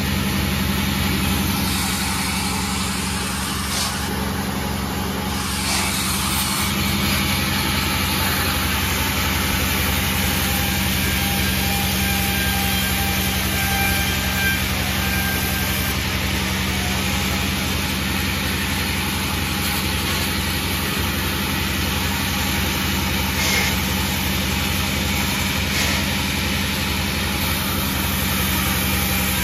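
Sawmill's engine running steadily at a constant speed, a continuous mechanical drone.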